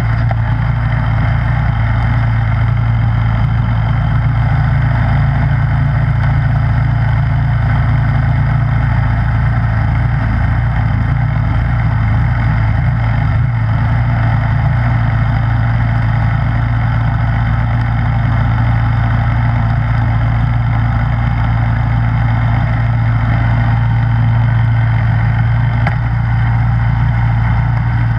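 Snowblower engine running steadily at constant speed, with no change in pitch or load.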